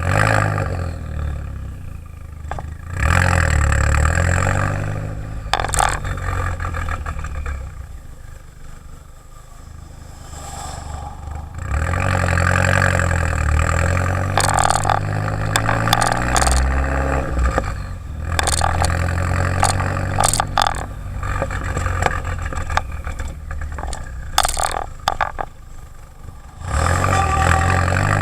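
Exhaust of a tuned turbocharged four-cylinder Jetta GLI with a 3-inch downpipe and Magnaflow race muffler, the revs rising and falling in several long surges. Short sharp cracks and clicks come in now and then during the louder stretches.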